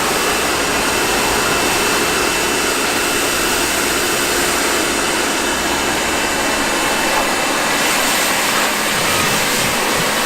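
Pressure washer running steadily, its water jet spraying with a constant hiss and a faint steady whine.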